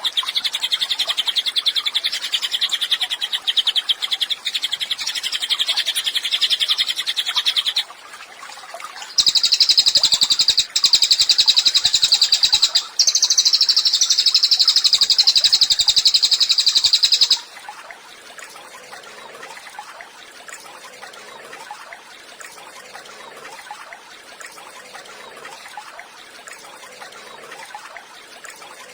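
Cililin songbird singing a long, very fast run of chattering notes. It stops abruptly at about 8 s, and a louder, higher-pitched run takes over a second later. That run cuts off suddenly after about 17 s, leaving quieter, busy twittering.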